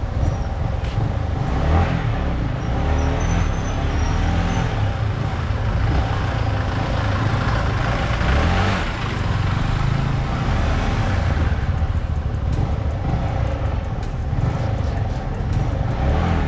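Motorcycle being ridden on the road: a steady, dense rumble of engine and road noise.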